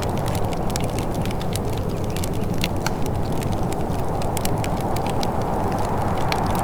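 Wood fire in a fireplace crackling, with many small irregular pops over a steady low rush.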